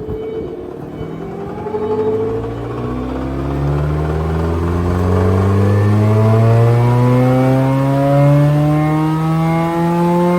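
VEB AD6 planer-thicknesser's 5 kW motor and 64 cm cutter block spinning up after switch-on: a hum that rises slowly and steadily in pitch and grows louder throughout, still climbing at the end.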